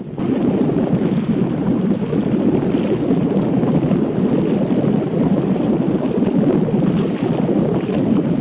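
Wind buffeting the camera's microphone: a loud, steady rushing rumble with no engine tone in it, cutting in suddenly at the start.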